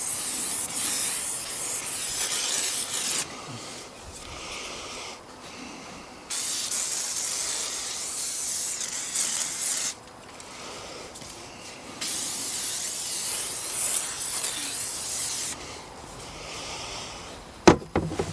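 WD-40 aerosol can spraying onto outboard motors in three long bursts of hiss, each about three to four seconds, with softer spraying between. A sharp click near the end.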